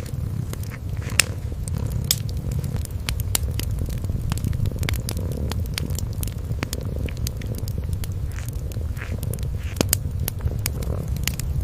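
A kitten's low, steady purr with a wood fire crackling over it in frequent, irregular sharp pops.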